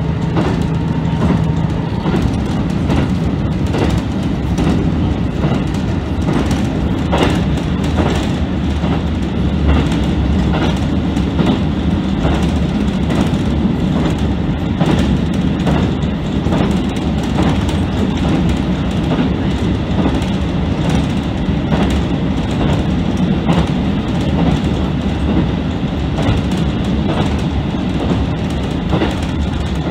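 A JR Central KiHa 75 diesel railcar running at speed, heard from inside the leading car: a steady low engine and running drone with the clickety-clack of the wheels over rail joints.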